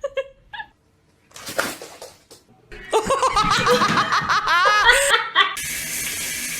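A person laughing in quick repeated bursts for a few seconds, starting about three seconds in after a few brief faint sounds. A steady hiss takes over near the end.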